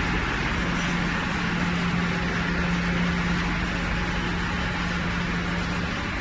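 Silica sand processing plant machinery running: a steady, even mechanical noise with a low hum held underneath.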